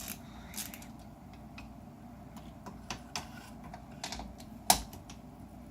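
Scattered light metal clicks and clinks of a ratchet and 13 mm deep socket working a nut off an A/C line stud, with one sharp metallic knock a little before the end.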